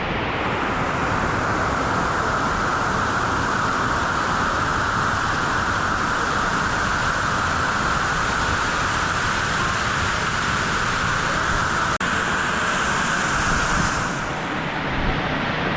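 Steady roar of falling water from Lower South Falls, a large waterfall. Its sound shifts and thins about two seconds before the end.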